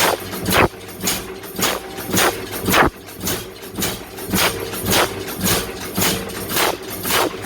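Hammer blows on hot wrought iron in a blacksmith's forge, struck in a steady rhythm of about two a second, each with a short ring, over a steady hum.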